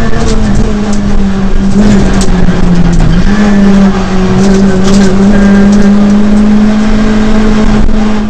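Ford Fiesta R2 rally car's engine, heard from inside the cabin, running hard at high revs with a steady note that dips briefly about three seconds in and climbs back. Loud tyre and road noise, with a few sharp clicks.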